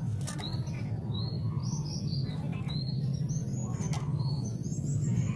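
White-rumped shama (murai batu) singing a run of quick whistled phrases that sweep up and down, over a steady low hum.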